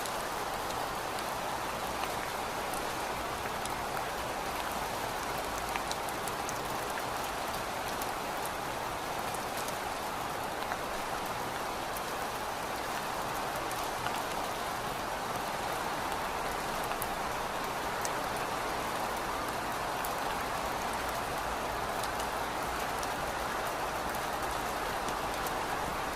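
Steady rainfall, an even hiss of rain with scattered light drop ticks.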